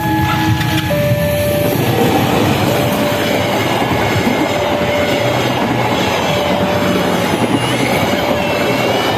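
A long train passing close by, its cars' wheels clattering steadily over the rails. A faint tone repeats in the background.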